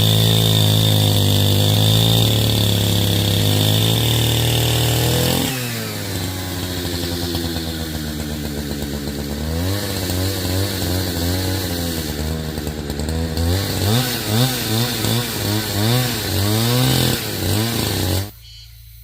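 Chainsaw engine running fast and steady, dropping in pitch about five seconds in, then revved up and down over and over before cutting off abruptly near the end.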